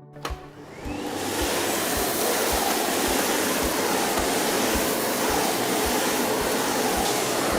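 Miele Blizzard CX1 bagless vacuum cleaner switched on with a click, its motor spinning up over about a second to a steady rushing suction noise as it vacuums a hard floor.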